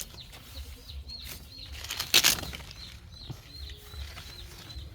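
Short high chirps repeating about three times a second, with one brief loud rustling burst about two seconds in.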